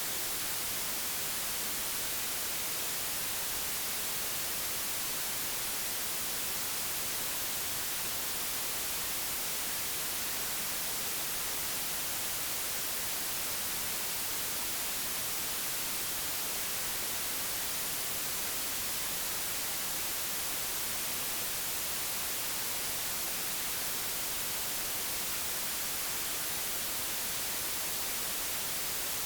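Digitally generated white noise: a steady, even hiss with no variation.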